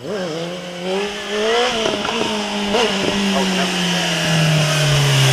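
Motorcycle engine running, with a few short throttle blips in the first three seconds, then its pitch sinking slowly as it grows louder.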